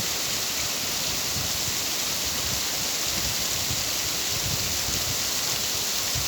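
Steady, even rain hiss, with scattered soft low thuds of drops landing close by.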